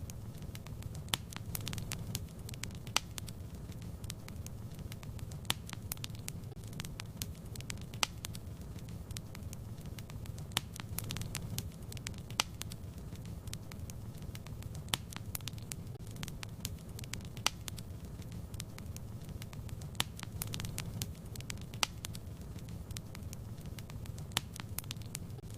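Fireplace fire crackling: irregular sharp pops and snaps, a few of them louder, over a steady low rumble.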